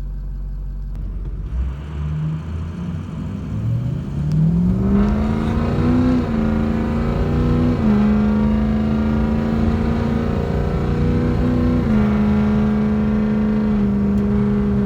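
Ford 6.0L Power Stroke V8 turbo-diesel pulling away from idle and accelerating, its note climbing, then stepping down in pitch twice and holding steady.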